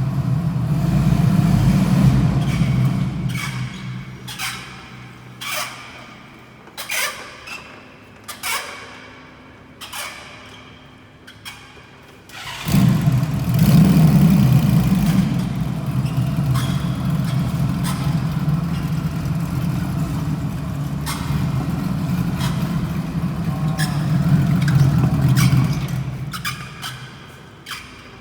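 Honda Valkyrie motorcycle with a bad wheel bearing: a loud low hum from the running drive dies away, leaving a ringing squeal once per wheel turn that comes more slowly as the wheel runs down. About halfway through the hum comes back suddenly and runs steadily, then fades near the end with a few squeals again.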